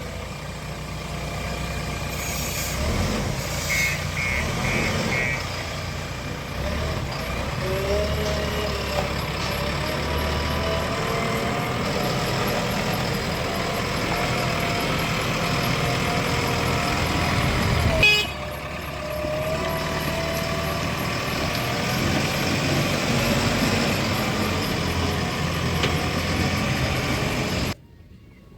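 Diesel engines of a JCB 3DX backhoe loader and farm tractors running steadily under varying load while mud is loaded. Four short beeps come about four seconds in. The sound changes abruptly about two-thirds of the way through, then drops away near the end.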